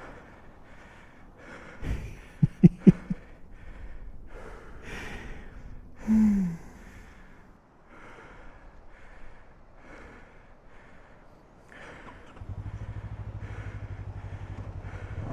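Heavy rhythmic breathing and panting, with a few sharp knocks about two and a half seconds in and a short falling vocal sound around six seconds. About twelve seconds in, the adventure motorcycle's engine starts and idles steadily with an even pulse.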